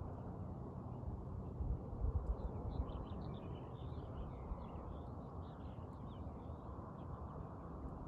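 Small birds chirping and twittering in quick overlapping calls over a steady low rushing background noise.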